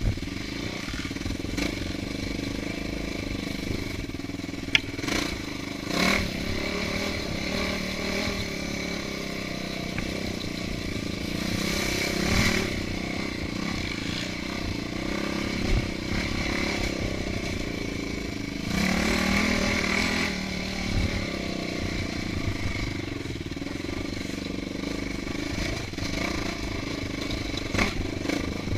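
Off-road motorcycle engine running as it is ridden along a rough trail, revving up in several swells, with occasional knocks and clatter.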